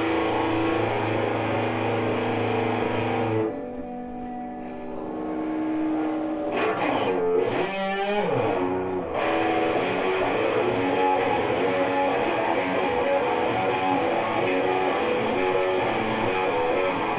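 Live rock band music led by electric guitar: held, ringing chords, a warbling bent-pitch passage about seven to nine seconds in, then the full band comes in with a steady beat and evenly spaced ticks.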